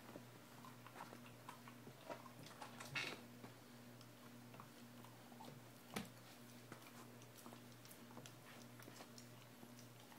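Faint scattered clicks and soft gnawing noises of a pet chewing a chew toy, with a sharper click about six seconds in, over a low steady electrical hum.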